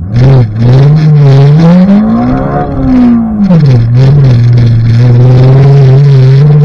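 Car engine under hard acceleration, very loud: the revs climb to a peak about two and a half seconds in, drop back a little before four seconds, then hold steady at a lower pitch.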